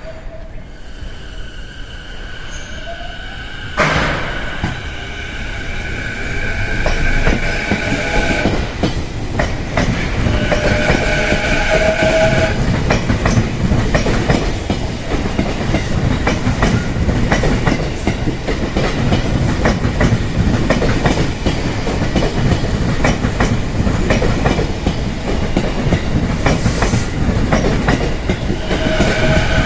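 E233-2000 series electric train getting under way and running, with wheel and rail noise that grows louder from about six seconds in. There is a sharp bang about four seconds in, and steady sounding tones come and go at times over the running noise.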